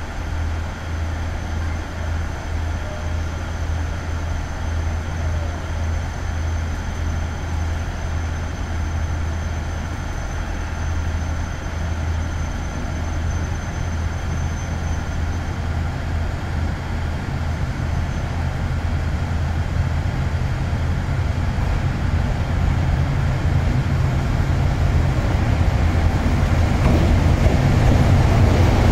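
EF65 electric locomotive hauling passenger coaches slowly pulls into the platform. Its running noise grows steadily louder over the second half and is loudest as the locomotive draws alongside near the end, over a steady low hum.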